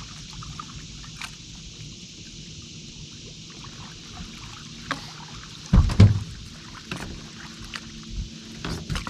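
Handling noise on a fishing boat: scattered knocks and clicks and one heavy thump about six seconds in, over a steady hiss of wind and water.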